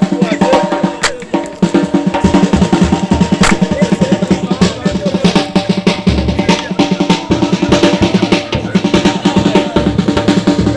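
Drums played in a fast, dense rhythm, many strokes a second without a break.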